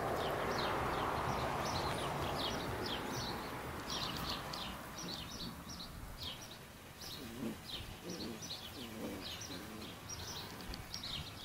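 Small birds chirping again and again in short, high notes, over a soft noisy rustle that fades after the first few seconds.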